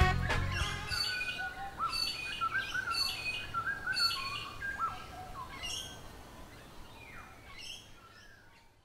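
Birds chirping in a string of short calls that fade out gradually to silence. The last low note of music dies away at the very start.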